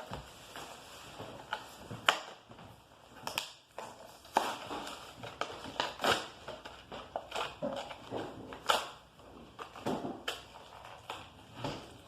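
Hot Wheels blister pack being opened by hand: plastic and cardboard packaging crackling and snapping irregularly, with a few louder snaps.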